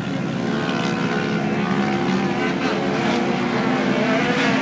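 A steady droning hum of several motors running at slightly different pitches that waver slowly.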